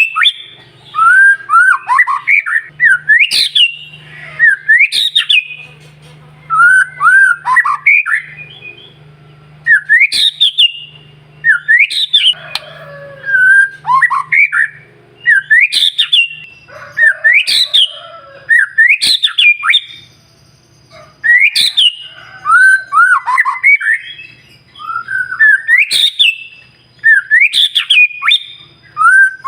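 White-rumped shama singing: loud, sharp up-slurred whistles every second or two, each run into lower warbling notes.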